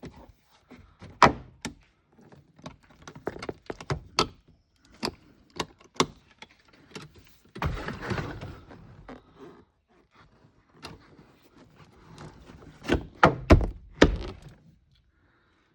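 Plastic interior cab corner post trim knocking and clicking against its mounting as it is handled and worked into place: a string of separate knocks and clicks, a rasping scrape about eight seconds in, and a cluster of louder thunks near the end as the fitted post is tested and holds.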